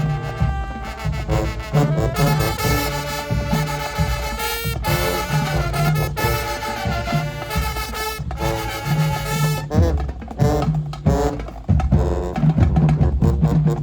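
High school marching band playing: brass section on sustained chords over bass and snare drums. About ten seconds in the horns drop out, leaving the drumline carrying the beat before the brass comes back in near the end.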